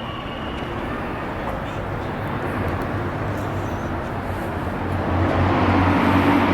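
Outdoor street noise with a motor vehicle's steady low hum that grows louder about five seconds in.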